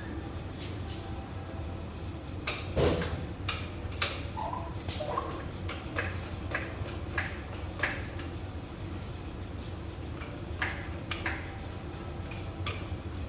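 Shop work noise: scattered knocks and clicks over a steady low hum, with one louder thump about three seconds in.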